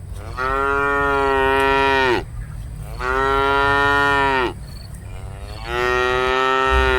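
Cattle mooing: three long, loud moos in a row, each held steady for a second and a half or more and sagging in pitch as it fades out.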